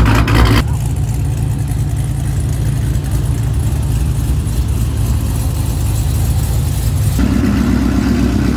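Engines of parked cars idling, heard in turn from three different cars: a brief first one, then a steady deep idle for most of the time, then about seven seconds in another car whose idle is a louder, higher rumble.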